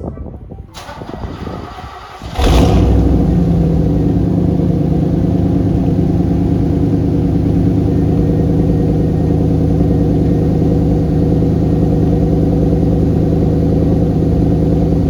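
Cold start of a 1988 Pontiac Firebird Formula's TPI V8 after it has sat about a month and a half: a couple of seconds of cranking, then it fires right up with a sudden burst and settles into a steady, even idle.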